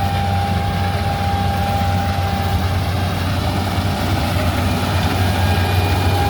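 Combine harvester's diesel engine running steadily with a deep hum, a thin high whine over it fading out about two and a half seconds in and coming back at the end.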